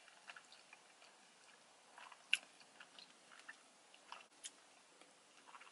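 Faint close-up chewing of a mouthful of sushi: soft, scattered wet mouth clicks, one a little louder about two seconds in.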